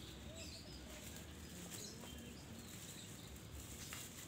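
Faint outdoor ambience with a few distant birds calling: short, faint chirps and glides now and then.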